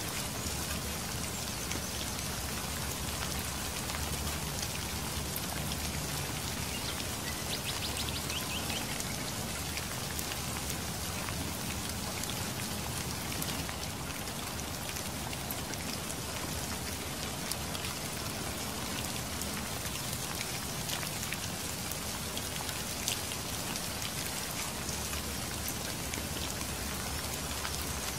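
Heavy rain falling steadily: an even hiss with many sharp ticks of single drops.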